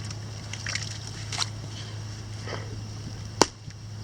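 A few sharp knocks over a low steady hum; the loudest knock comes about three and a half seconds in.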